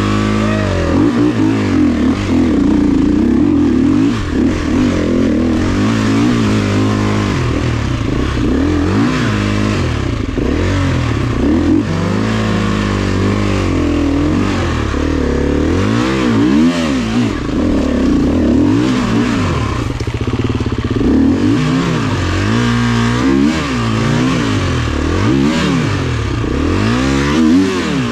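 Single-cylinder dirt bike engine revved up and down again and again, its pitch rising and falling with each burst of throttle as the bike works through difficult trail terrain.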